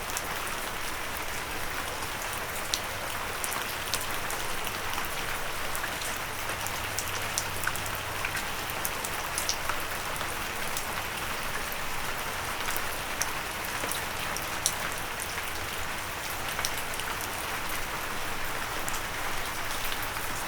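Steady rain falling, with many separate drops ticking sharply on a windowsill.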